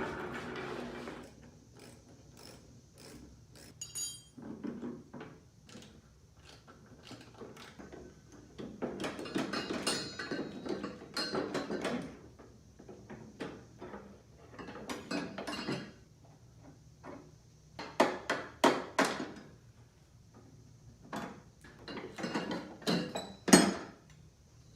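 Hand tools working on metal mower parts: irregular clicks, clanks and scraping, with ratchet-like runs.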